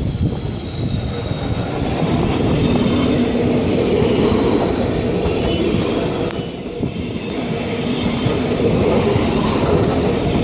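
Train running along the track: a steady rumble of wheels and rails with a held hum and a faint high whine, dipping briefly about two thirds of the way through.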